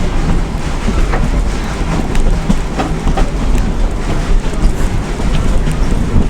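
Steam train's passenger car rolling along: a steady rumble with the wheels clicking and clattering over the rail joints.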